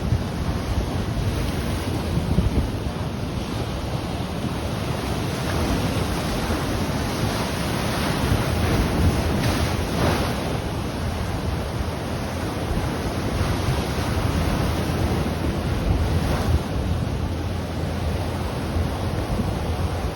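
Ocean waves breaking and washing on the shore in a steady rush that swells a little now and then, with wind buffeting the microphone.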